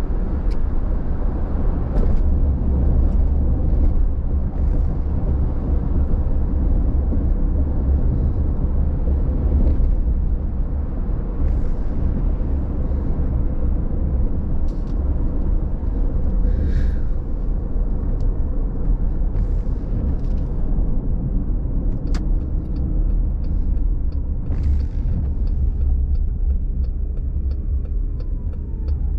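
Car driving on a wet road at night: a steady low rumble of road and tyre noise. In the last several seconds, sharp ticks repeat evenly at about two a second.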